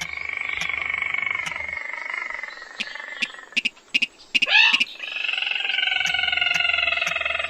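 Calls of a rice-field rail, the sintar or mandar padi. There are two long, slightly falling trilled calls, with a short sharp swooping note between them. Faint regular ticks run underneath.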